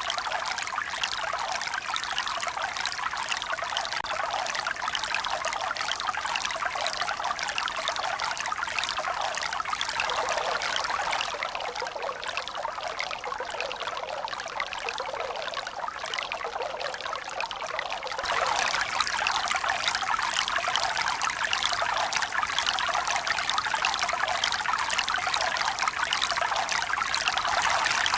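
Running water, a steady rush that quiets a little through the middle and turns suddenly louder about eighteen seconds in.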